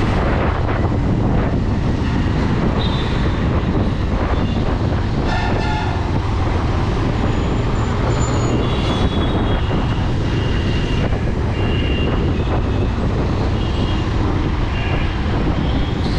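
Bajaj Pulsar 220 motorcycle riding in city traffic: steady engine hum and road noise, with vehicle horns tooting several times, one about five seconds in and a run of short beeps from about nine seconds on.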